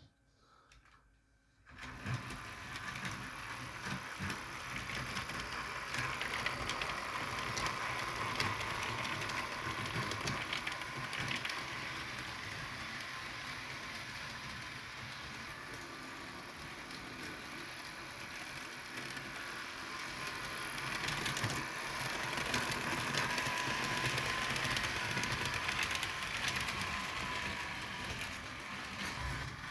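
Model diesel locomotives running on track, their electric motors and gearing whirring steadily with a light clatter of wheels on rail; it starts about two seconds in.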